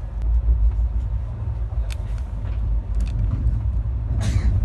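Steady low rumble of a passenger train coach running on the rails, with a few light clicks and a short hiss about four seconds in.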